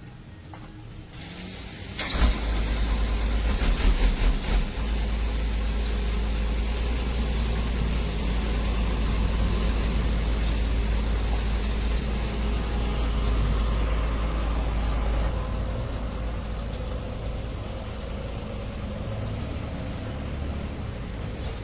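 Cargo truck's engine starting about two seconds in, running unevenly at first, then settling into a steady deep-rumbling run that drops somewhat in level near the end.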